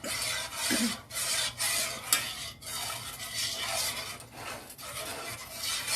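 A spoon scraping around a saucepan in repeated strokes, stirring a white sauce of butter, flour, broth and milk as it heats toward a simmer.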